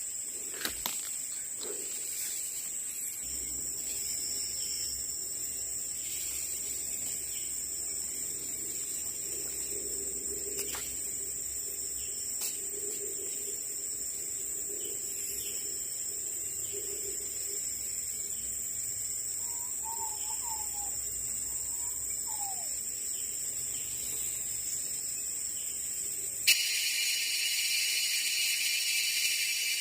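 Steady high-pitched drone of insects in tropical forest, with a few brief whistled bird notes about two-thirds of the way through. Near the end the background changes abruptly to a louder, denser hiss.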